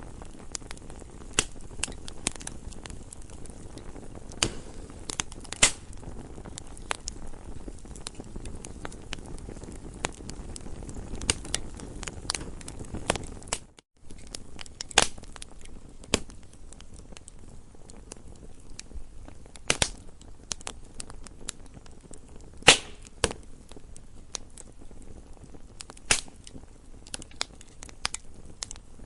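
Campfire crackling: a steady low rustle of burning wood under frequent sharp pops and snaps, the loudest pop about two-thirds of the way through. A split-second gap in the sound comes just before the halfway point.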